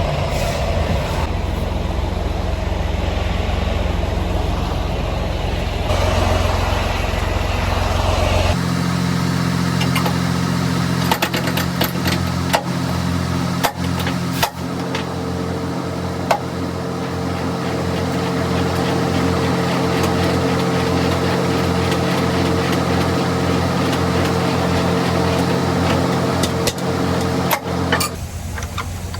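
Semi-truck engine running steadily, heard as a low drone inside the cab, with scattered clicks. The drone changes abruptly to a different pitch pattern about eight seconds in.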